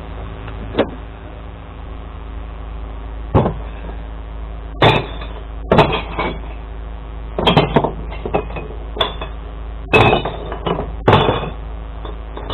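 Glass bottles crashing and clinking as they are tipped into a glass recycling truck, in about ten separate loud crashes, over the steady hum of the truck's idling engine.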